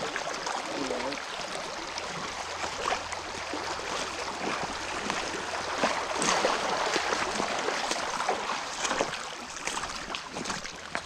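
Creek water sloshing and splashing with irregular steps, as someone wades through a shallow creek; the splashing is strongest a little past the middle.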